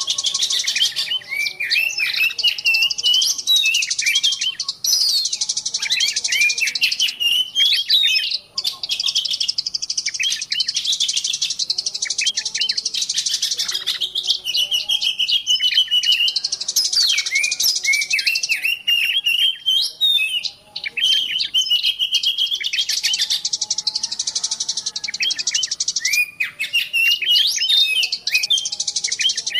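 Many small birds chirping and twittering at once in a dense, unbroken chorus of quick high notes, trills and short whistles. This is a mixed-species lure recording (pikatan) made to draw small wild birds in.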